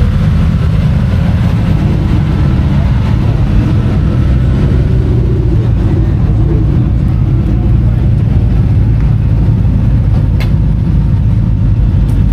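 Loud, steady low rumble of car engines running, with faint voices in the background.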